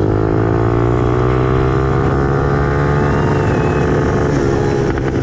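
Suzuki RM-Z250 four-stroke single-cylinder dirt bike engine running steadily, its pitch drifting slowly up and down with the throttle.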